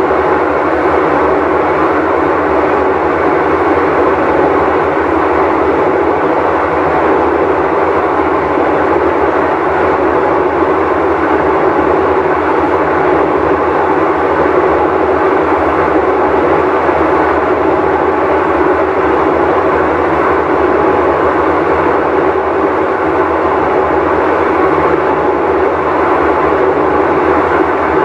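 Whirlpool Cabrio top-load washer running with a loud, steady drone that does not change. This is the sound of its bad tub bearing.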